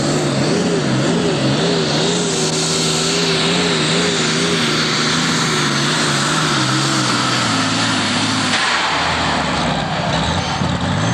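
Alcohol-burning John Deere super stock pulling tractor engine running hard under load, its pitch wavering. About eight and a half seconds in the pitch drops as the engine comes off, then it revs up again at the very end.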